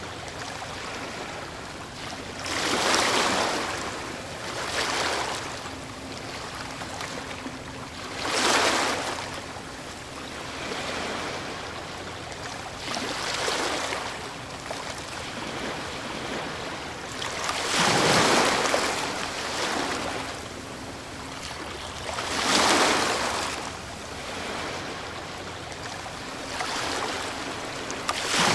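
Ocean waves breaking on a shore: a steady wash of surf with a louder rush each time a wave breaks, about every four to five seconds, at irregular intervals.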